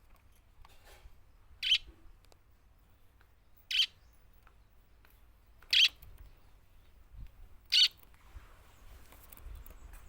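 A budgerigar giving four short, sharp high-pitched calls, evenly spaced about two seconds apart.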